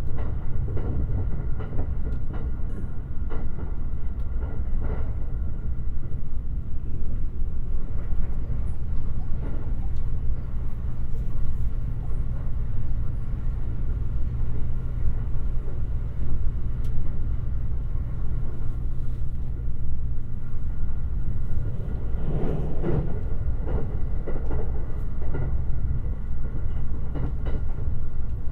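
Limited Express Shirasagi electric train running along the rails with a steady low rumble. In the last several seconds a run of wheel knocks comes over the rail joints.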